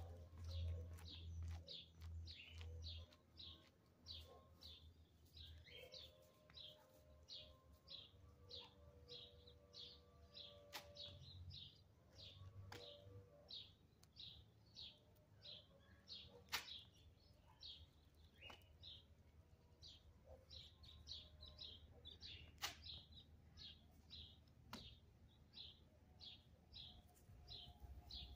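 Faint, steady chirping of a small bird, short high chirps at about three a second, with a few sharp clicks now and then.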